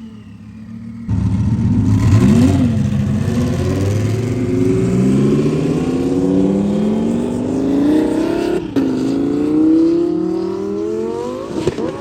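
Car engine accelerating hard, its pitch climbing steadily, then dropping suddenly at a gearshift a little under nine seconds in and climbing again before fading away.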